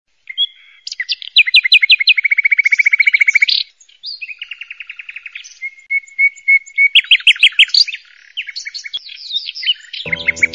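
Songbird singing: rapid trills and quick runs of repeated falling notes, with a held whistle partway through. Music comes in just before the end.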